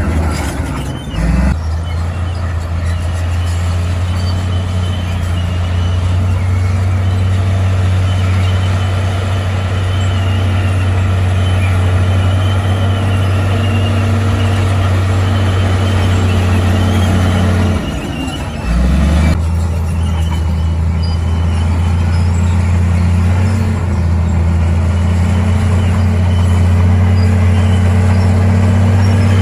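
Heavy diesel engine of earthmoving machinery running steadily with a deep, even hum. Its note drops and shifts briefly about a second in and again around eighteen seconds in, then settles back.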